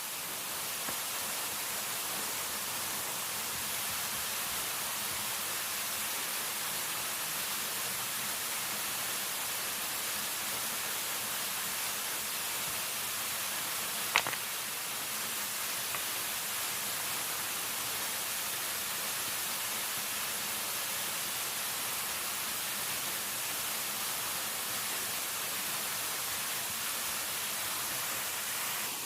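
Steady water noise, an even hiss with no rhythm or pitch, with one sharp click about halfway through.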